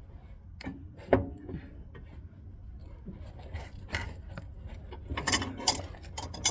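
Metal wrench clicking and clanking against a truck's outer tie rod end as it is worked loose, in scattered sharp knocks with a louder cluster about five seconds in.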